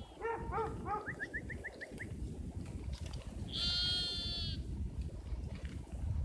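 Sheep bleating: a wavering bleat at the start, running into a quick string of short rising high notes, then one long high-pitched bleat about three and a half seconds in.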